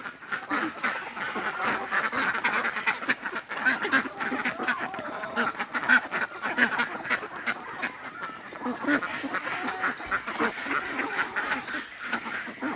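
A flock of mixed domestic ducks quacking continuously, many short calls overlapping, as they are fed.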